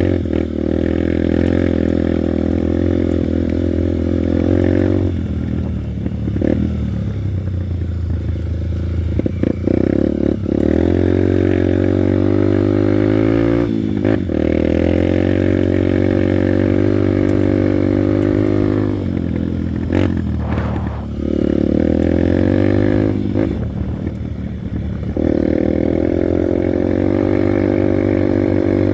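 Honda Bros 150 trail motorcycle's single-cylinder four-stroke engine running under way, revving up through stretches of climbing pitch and easing off several times as the rider shifts and slows. A few short knocks come through over the engine.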